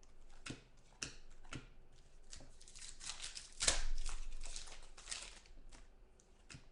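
Trading-card pack wrapper being crinkled and torn open and cards being handled: a string of short clicks and snaps, with a louder stretch of crinkling and tearing about halfway through.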